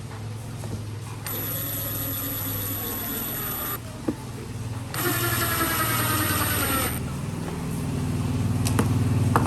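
A steady low motor hum, with two bursts of high-pitched mechanical whine of about two seconds each that start and stop abruptly.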